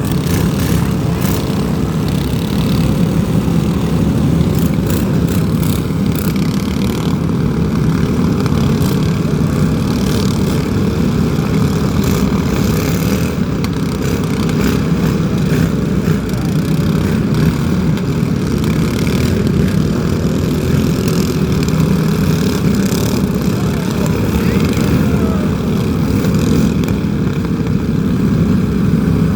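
An engine running steadily and loudly, with a few faint clicks over it.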